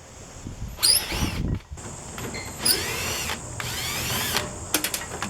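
Cordless drill running in three short bursts, its whine rising and falling in pitch each time, followed by a few quick clicks near the end.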